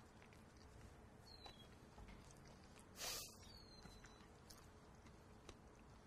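Near silence as someone eats cheesy bacon fries: faint soft clicks of chewing and a brief rustling hiss about three seconds in. There are also a couple of faint high chirps.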